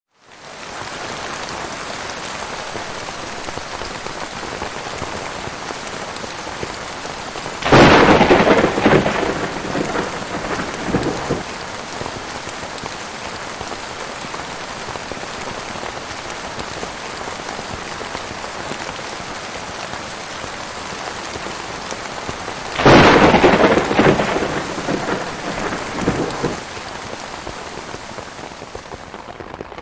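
Steady heavy rain with two claps of thunder, one about eight seconds in and one about twenty-three seconds in. Each clap starts suddenly and rolls on in fading rumbles for three or four seconds.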